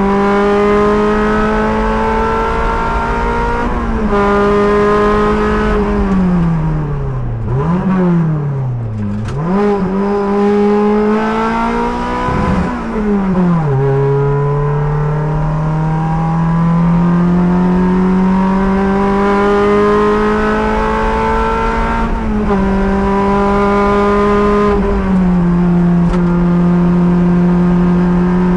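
A race car's engine, heard from the driver's seat, running hard under acceleration, the pitch climbing slowly and stepping down at each upshift. Partway through, the revs fall away and jump up and down several times as the driver brakes and downshifts for a corner. It then pulls again, with upshifts near the end.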